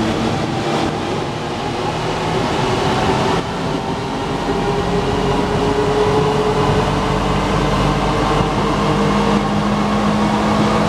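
Alstom NS-93 metro train running, a steady rumble with a held low hum from its drive equipment.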